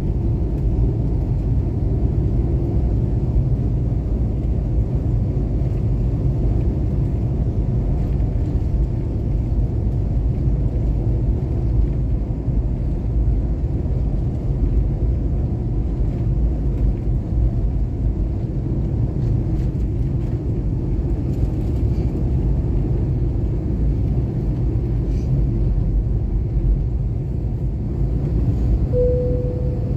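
Passenger airliner engines and airflow making a steady low rumble, heard from inside the cabin. A short steady tone sounds near the end.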